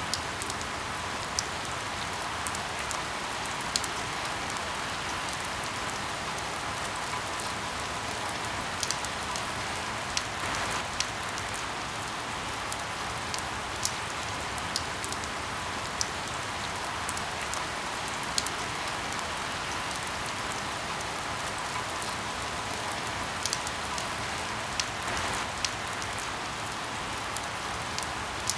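Steady rain hiss with scattered, irregular sharp pops of crackling firewood.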